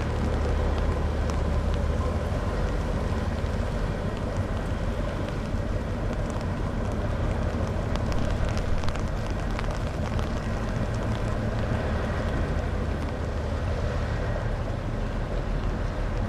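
Steady low engine drone of a sand-carrying river boat, under a constant rushing noise.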